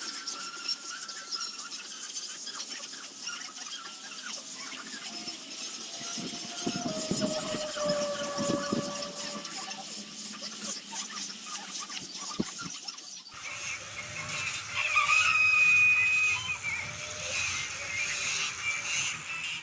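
High-pitched hiss with whining tones that shift in pitch, like a small tool at work; the sound changes about thirteen seconds in and is loudest a little after.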